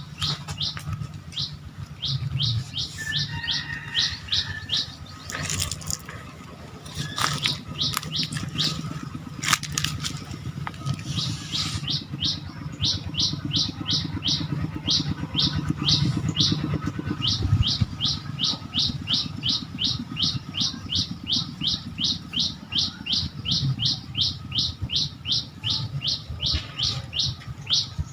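A bird calling over and over with quick, high, downward-slurred notes, about three a second, in broken runs at first and then unbroken from about twelve seconds in. A low steady rumble lies underneath, with a few sharp clicks in the first half.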